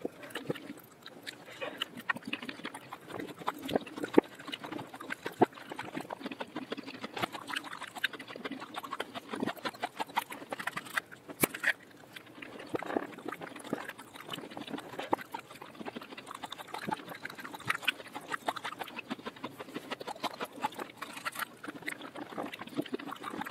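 Close-miked chewing of coconut worms (palm weevil larvae), played in reverse: a dense, uneven run of short mouth clicks and smacks.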